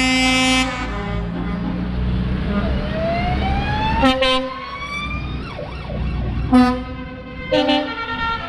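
Vehicle horns sounding: a long blast at the start, then short blasts about four seconds in and repeatedly near the end, with a siren rising in pitch between them over a low engine rumble.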